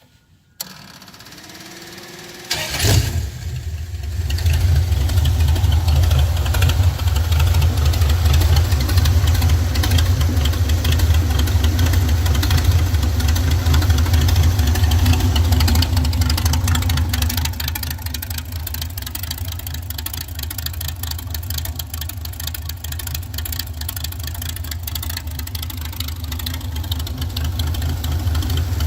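A 4.3-litre Vortec V6 cold start: the starter cranks for about two seconds, the engine catches about three seconds in, then runs loud and steady. After about fifteen seconds of running it settles to a quieter idle.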